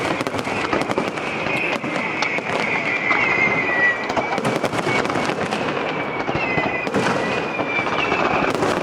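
Dense, continuous crackling of many small sharp pops, like crackling fireworks, with a wavering high whistle-like tone over it.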